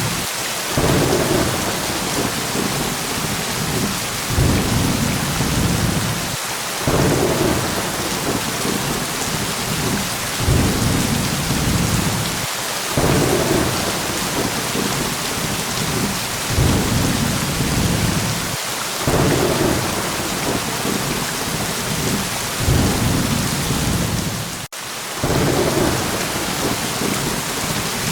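Steady heavy rain hiss with low thunder rumbles rolling in every couple of seconds. There is a sudden brief dropout in the sound about 25 seconds in.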